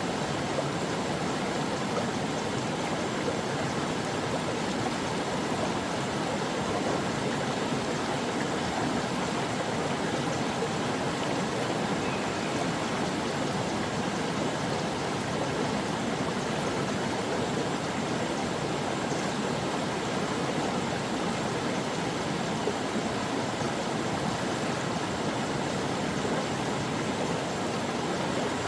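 Brook water flowing, a steady, even rush of running water with no pauses or changes.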